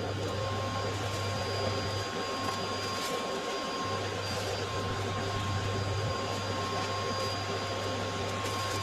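A vacuum cleaner running steadily with a constant motor whine and rushing air, its low hum dipping briefly a few seconds in. It is being used to clear soot and nest debris from a fireplace.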